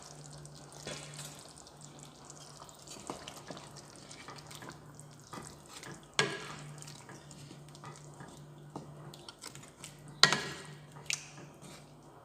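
Chicken curry with potato pieces being stirred in a cooking pot: soft wet stirring with scattered light clicks, and sharper knocks of the utensil on the pot about six and ten seconds in. A faint steady hum runs underneath.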